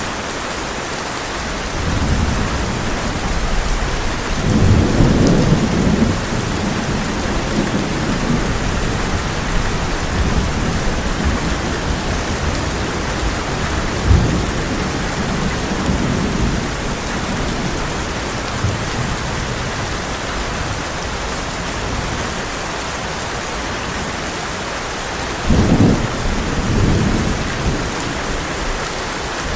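Heavy rain falling steadily on a tin roof, with thunder rumbling low several times: a long rumble a few seconds in, a short thud about halfway, and a sharper, louder clap near the end.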